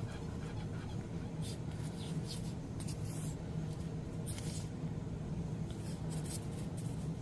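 Glue being rubbed onto paper in several short scratchy strokes, a second or so apart, over a steady low hum.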